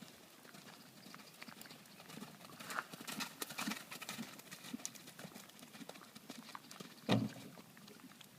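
Horse's hooves clip-clopping as it is ridden, an irregular patter of hoof strikes that is busiest a few seconds in, with a louder short low thump about seven seconds in.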